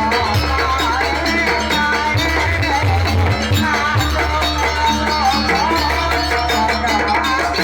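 Live jaranan campursari band music: a wavering, bending melody over steady drums and bass.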